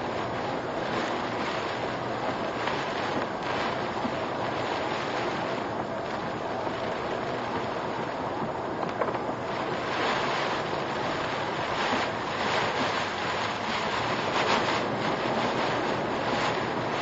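Typhoon wind and heavy rain beating on a car, heard through a dashcam's microphone: a steady rushing noise that grows a little louder and gustier from about ten seconds in.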